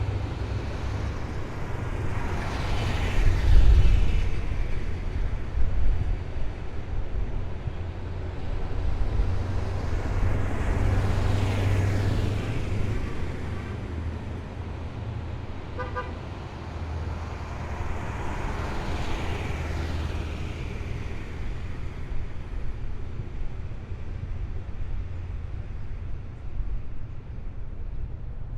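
A column of heavy military vehicles driving past one after another, with a deep engine rumble and three pass-bys whose pitch falls as each one goes by. A short horn beep sounds about two-thirds of the way through.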